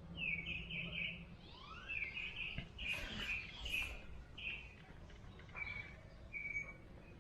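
A songbird chirping in quick runs of short, high notes, with a few rising whistles, heard faintly in the background. A faint click sounds about halfway through.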